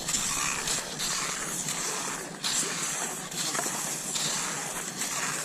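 Cross-country skis sliding over snow: a repeated hissing swish with each stride, coming about every second or two.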